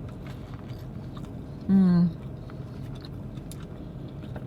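A person chewing a burger, with faint scattered mouth clicks, and a short hummed voice sound about two seconds in that is the loudest thing heard.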